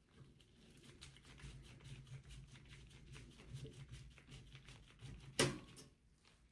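Small clicks, taps and scrapes of a desktop PC's motherboard and metal chassis being handled and worked loose, with one sharp louder knock about five seconds in.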